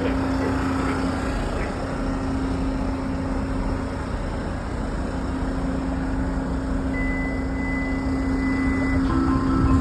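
Steady rumble of vehicle noise with a constant low hum underneath; a thin, high steady tone sounds for about two seconds near the end.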